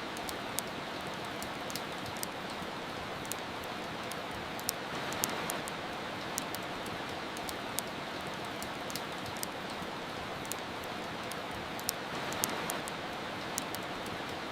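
Steady rain over the scattered crackles and pops of a wood fire, with the rain swelling slightly twice.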